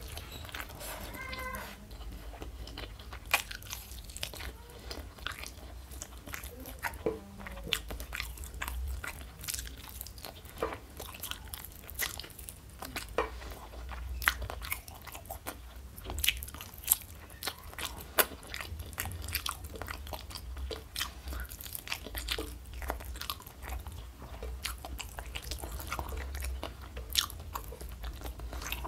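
A person chewing and biting crunchy fried food close to the microphone: irregular crisp crunches and mouth clicks.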